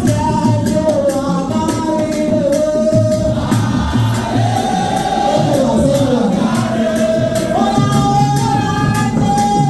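A group singing a song together in chorus over a steady percussion beat.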